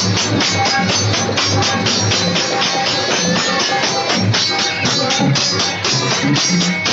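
Live folk stage music: a band playing with fast, steady percussion, about four or five strokes a second, under pitched instrument lines.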